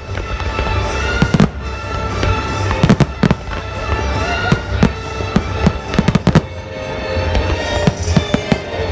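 Fireworks display: a rapid series of sharp bangs from bursting firework shells, some in quick clusters, heard over music with held notes.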